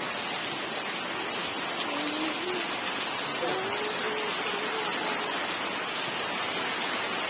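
Heavy rain falling steadily: a dense, even hiss of drops hitting the ground.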